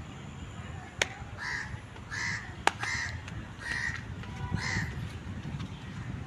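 A bird calling five times with short, rough cries about a second apart, over a steady low rumble. Two sharp clicks come between the first calls.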